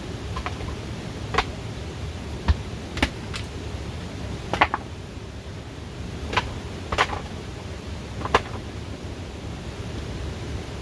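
Sharp knocks and taps at irregular intervals, about nine in all, over a steady background hiss.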